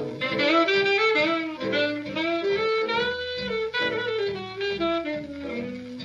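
Alto saxophone solo: a fast, running jazz line of many quick notes, with the band's rhythm section of piano, guitar, double bass and drums behind it, from an old 78 rpm record.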